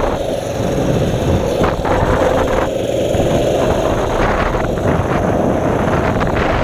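Mini bike's small engine running steadily as it is ridden along, with wind noise on the microphone.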